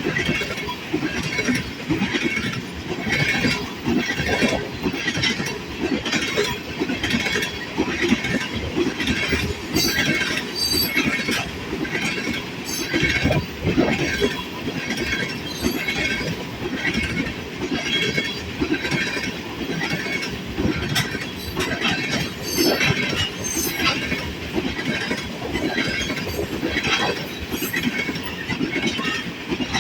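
Freight train of oil tank cars rolling past, the wheels clicking over rail joints in a steady repeating rhythm, with brief high wheel squeals now and then.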